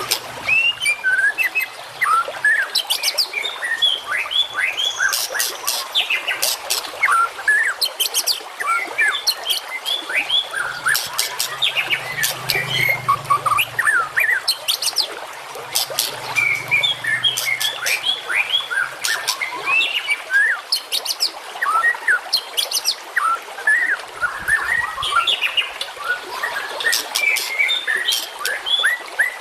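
Songbird masteran recording: a dense, unbroken chorus of several small birds' quick chirps, trills and sharp rising whistles overlapping one another, the kind of varied song played to train caged songbirds such as the white-rumped shama.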